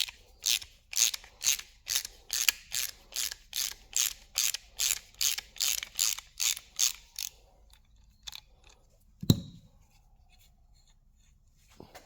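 Ratchet wrench being worked back and forth, a run of clicking strokes about two and a half a second that stops some seven seconds in. A single louder knock follows about two seconds later.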